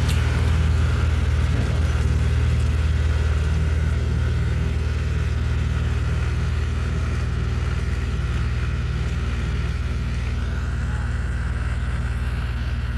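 Diesel tractor engine running steadily, a low even drone that eases slightly in level toward the end.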